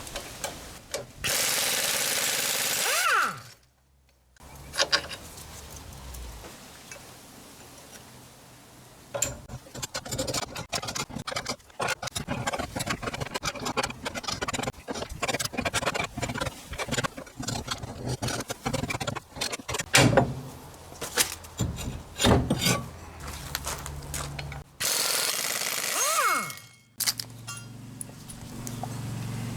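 Mechanic's tools working on a car's suspension and underbody: a power tool runs in two short bursts, each ending with a bending whine as it winds down. Between them comes a long stretch of rapid, irregular clicking and rattling of metal tool work.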